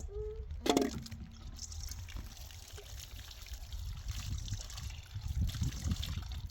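Water trickling and pouring steadily, with a sharp knock under a second in.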